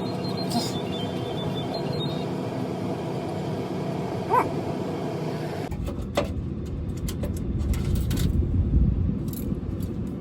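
Steady mechanical hum of running machinery, with a short pitched call about four seconds in. Past the middle it switches abruptly to a deeper, louder rumble.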